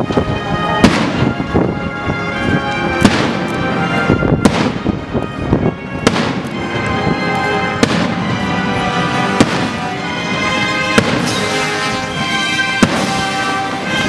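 Fireworks bursting in a display: sharp bangs every one to three seconds, some followed by crackle, over loud music that keeps playing throughout.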